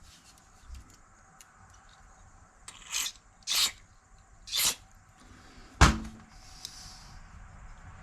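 Three short hissing spray bursts, each a fraction of a second, blown through a motorcycle carburetor's passages to check that they are open. A single sharp knock follows soon after.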